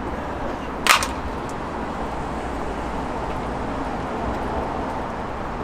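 A single sharp click or snap about a second in, over a steady background hiss.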